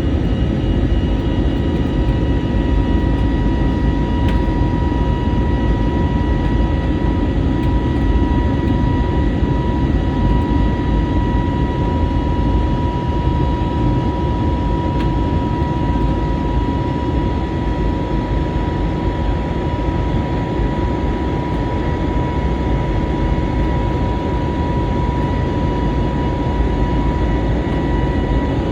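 Steady jet airliner cabin noise heard from inside the passenger cabin: a dense, even engine-and-airflow rumble with a constant whine.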